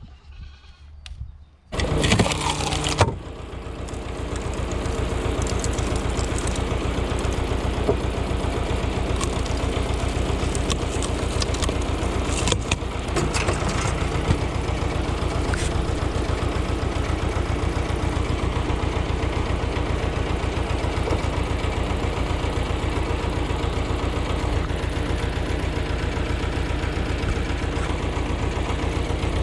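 Ursus tractor engine started about two seconds in, then building within a couple of seconds to a steady run with an even, rapid pulse of firing strokes.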